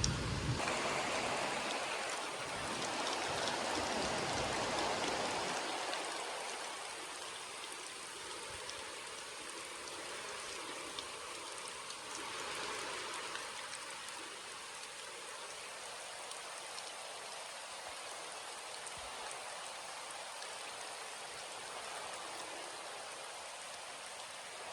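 Rain falling steadily, louder for the first six seconds or so, then settling to an even level.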